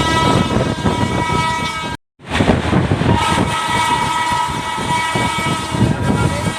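Train horn sounding long and steady over the rumble of a running train. It breaks off at a cut about two seconds in and is sounding again from about three seconds in.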